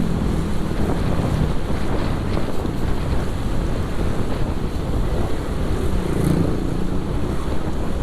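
Wind rushing over an action camera's microphone on a moving motorcycle, a steady rumbling noise with the motorcycle and road traffic underneath.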